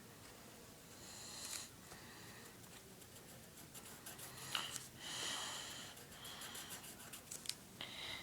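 Pencil scratching on paper in quick short strokes, shading in a drawing.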